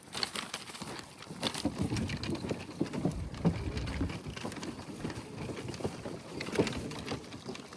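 Irregular crunching and rustling of footsteps walking a nature trail, with dense short crackles.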